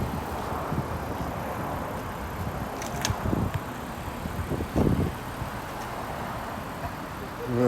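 Steady low rumble of vehicle noise outdoors, with a single sharp click about three seconds in.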